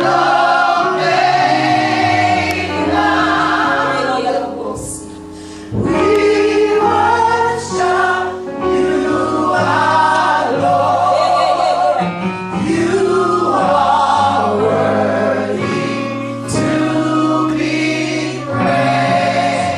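Gospel choir singing praise music, with vibrato on the held notes.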